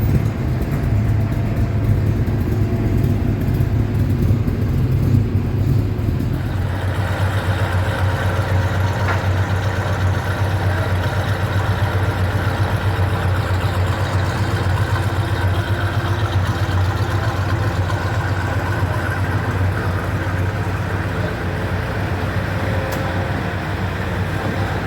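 Vehicle engine idling steadily with a low hum. About six and a half seconds in, more mid-range mechanical noise joins it.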